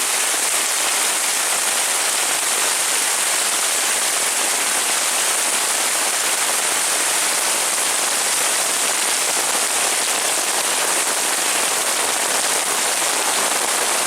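Heavy rain falling steadily on surfaces, a dense, even hiss.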